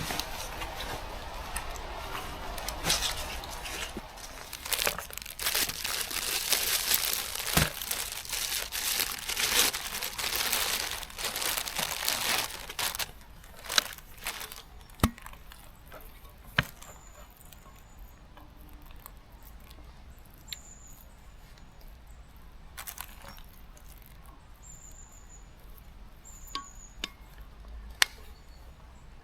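Crinkling and rustling of material being handled for about the first dozen seconds. Then it goes quieter, with scattered sharp clicks and about five short high chirps spread through the rest.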